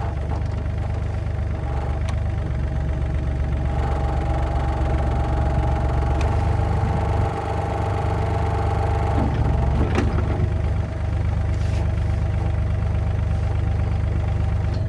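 Engine of a machine fitted with a hydraulic thumb, an excavator-type digger, running steadily. It is a little louder from about four seconds in, and there is a single sharp click about ten seconds in.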